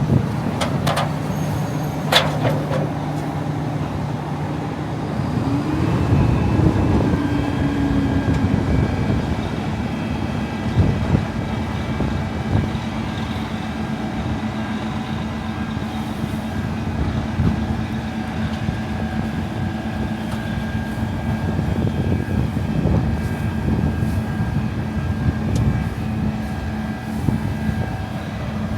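Big diesel engine of heavy farm machinery running steadily, its pitch shifting upward about six seconds in as it works.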